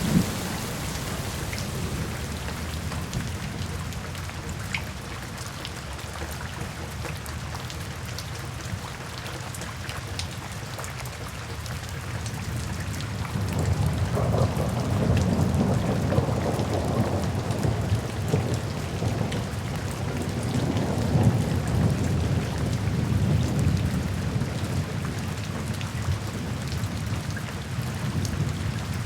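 Steady rain falling during a thunderstorm, with a long roll of deep thunder rumbling in about halfway through and fading near the end.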